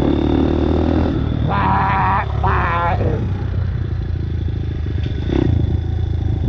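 Dirt bike engine running steadily while riding. About a second and a half in come two short, high-pitched wavering sounds, each about half a second long.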